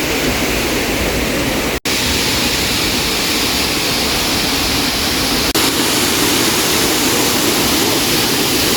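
A waterfall's water rushing in a steady, loud wash. The sound cuts out for an instant about two seconds in and dips briefly again a little past the middle.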